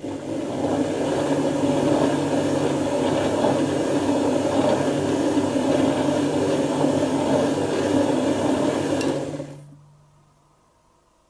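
Dyson Contrarotator CR01 washing machine's drums turning in a burst of wash tumbling for about nine and a half seconds, a steady motor hum under it. It stops abruptly, the hum dying away about a second later.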